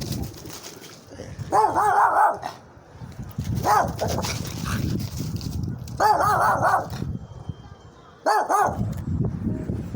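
Dog barking in short clusters of several barks, with pauses of a second or two between them.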